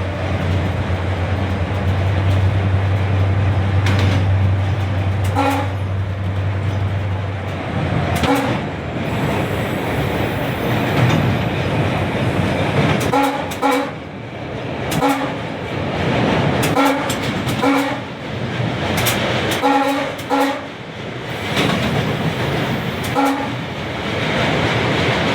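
Train running past on the rails, its wheels clattering over the rail joints. A steady low engine hum stops about seven seconds in. After that, short ringing tones come back every two to three seconds, often in pairs.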